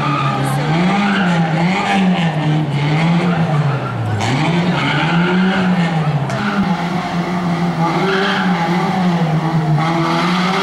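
Small Fiat 127 hatchback's engine revving up and down over and over, about once every second or so, as the car is thrown through a tight cone slalom.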